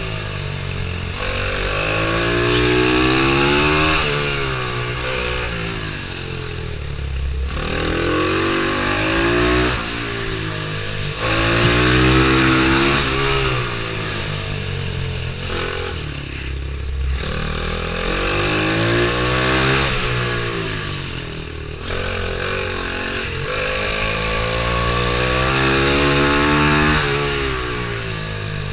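Pitbike's single-cylinder engine racing around a kart track, revving up hard out of each corner and dropping back as the rider lifts off, in a cycle repeating about every four to five seconds.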